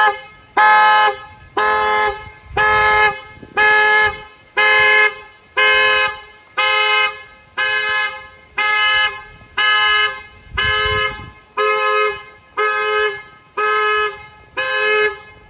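Car alarm honking the car's horn over and over, one blast about every second, set off when the car was opened or closed.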